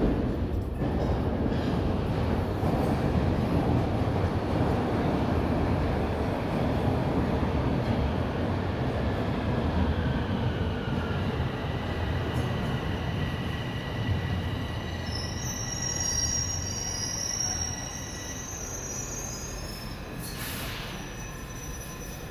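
Toronto subway Line 1 train running, a steady low rumble with high wheel squeals that come in through the middle of the stretch. The rumble grows quieter over the last few seconds as the train slows ahead of a station stop.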